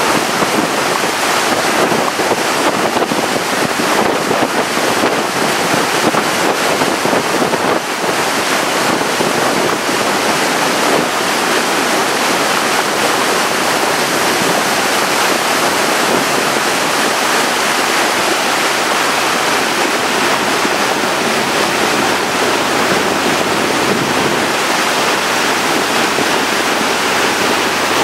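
Steady loud rush of wind and water from a tour boat running on the lake, with wind buffeting the microphone.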